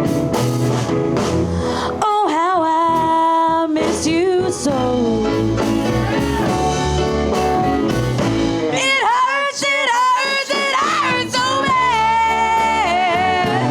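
Live blues band playing, with drums, bass and guitar under a lead line that bends and wavers in pitch.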